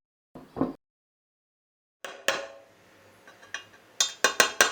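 Metal parts of a Facit typewriter clicking and clinking as they are handled or worked. There are a couple of light knocks, then a louder strike about two seconds in that rings briefly, and four quick sharp clacks near the end.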